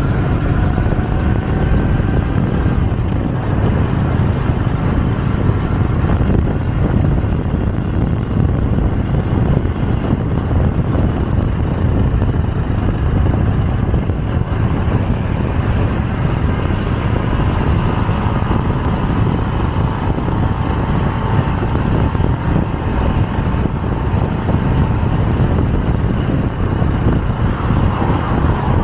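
Motorcycle taxi riding at speed, heard from the pillion seat: steady engine and road noise with wind rushing over the microphone. A faint steady whine joins in from about seventeen seconds in and fades by about twenty-five.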